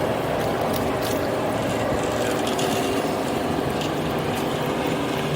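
Bumper boat's motor running with a steady, even hum.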